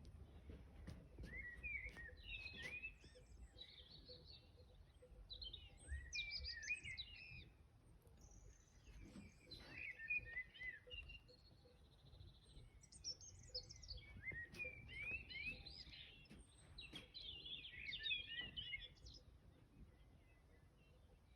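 Songbirds singing faintly: short, quick warbling phrases that repeat every few seconds, over a low background rumble.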